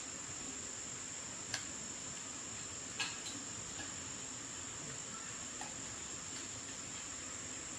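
Steady high-pitched insect trilling, with a couple of light clicks about a second and a half and three seconds in.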